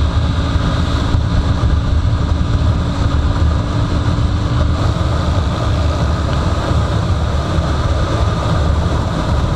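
Jawa motorcycle on the move, a steady low rumble of engine, road and wind noise on the microphone; a faint steady hum fades out about halfway through.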